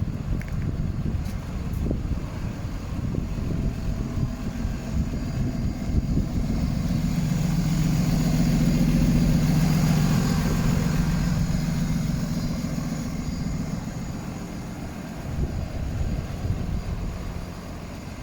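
A motor vehicle passing by: its engine hum swells to a peak about nine seconds in and then fades, over a steady outdoor rumble.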